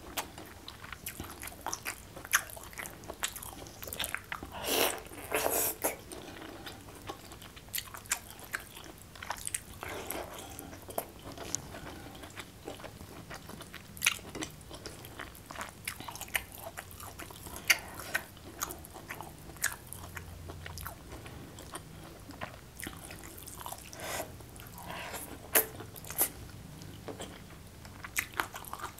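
Close-up mouth sounds of a person eating rice and side dishes by hand: steady chewing and biting with wet clicks and smacks, and now and then a louder crunch.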